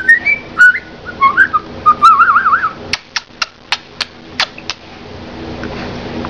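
Pet budgerigar chirping and warbling in quick whistled notes with a wavering trill, then about seven sharp clicks in a row from about three seconds in.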